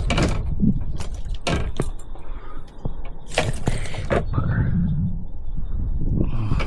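Close handling noises, a few sharp knocks and rustling bursts, from the angler handling a just-caught fish and his gear, over a steady low rumble.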